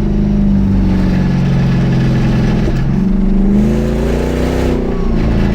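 Mercedes E500's V8 exhaust running open with no muffler or resonator, loud under way. The drone holds steady, dips about three seconds in, climbs in pitch for over a second, then drops back near the end.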